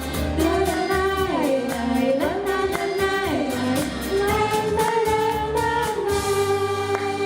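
Vocal ensemble singing over a pop backing track in a song's closing bars. The beat drops out about six seconds in and a final chord is held.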